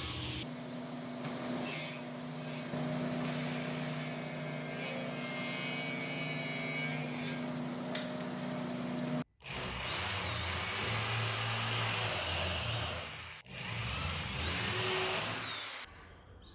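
Power tools working plywood in three short clips. First a motor runs steadily under load for about nine seconds. After two abrupt cuts comes a motor whose pitch rises and falls as it speeds up and slows.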